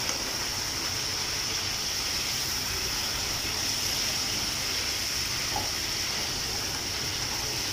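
Marinated crab pieces frying in oil in a wok: a steady, even sizzle, in the long dry-fry stage after the added water has cooked off.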